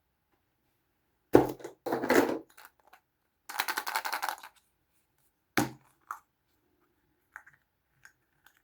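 Small plastic toys and capsules handled on a hard surface: a sharp knock, a short scraping rattle, a quick run of clicks, another knock, then a few light taps.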